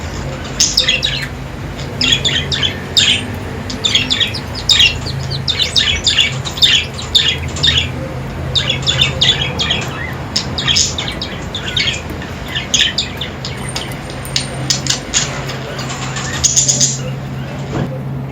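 Budgerigars chirping and chattering in rapid clusters of short, high calls, with a steady low hum underneath.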